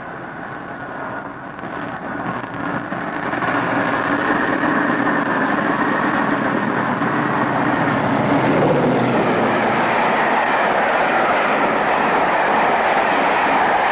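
British Rail mainline diesel locomotive approaching and growing louder over the first few seconds, then running past with a steady engine note that drops slightly in pitch about nine seconds in.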